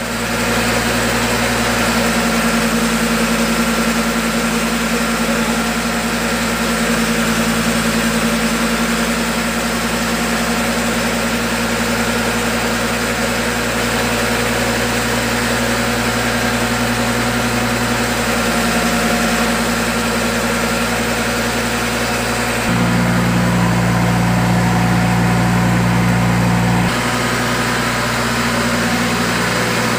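Engine-driven fish feed pellet machine running steadily, a constant engine hum with steady low tones. About three-quarters of the way through, the low hum grows louder for about four seconds, then settles back.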